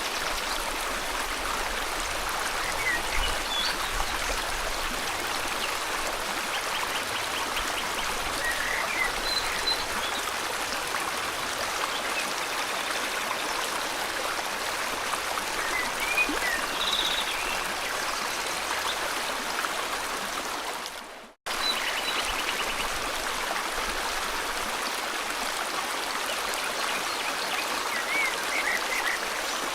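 River water flowing steadily, with birds chirping in short calls and a few brief buzzy trills over it. The sound cuts out for an instant about two-thirds of the way through, then resumes.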